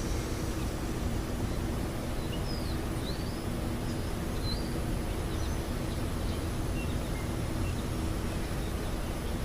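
Steady low rumble with a faint even hum underneath. A few faint, short bird chirps come and go between about two and eight seconds in.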